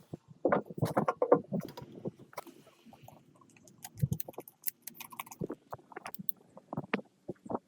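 Irregular knocks, taps and clatter from hand work on machine parts, loudest in a cluster about a second in.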